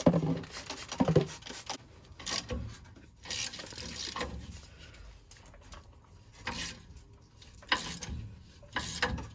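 Hand-tool work on a stuck threaded part: scraping and rubbing in short, irregular spells, with a few clicks.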